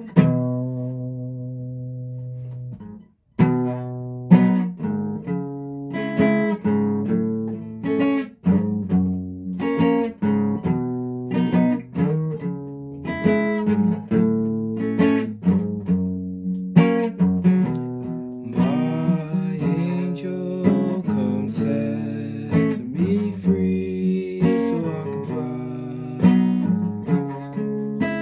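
Guitar strumming chords. A chord rings out and is cut off about three seconds in, then a steady run of strummed chords follows.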